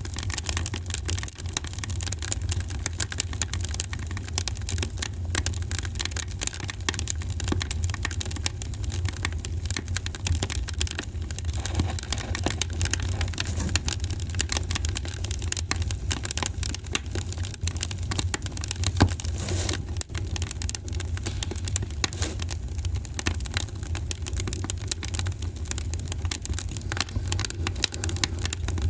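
Wood fire crackling steadily: a dense stream of small snaps and pops over a low rumble, with one louder pop about two-thirds of the way through.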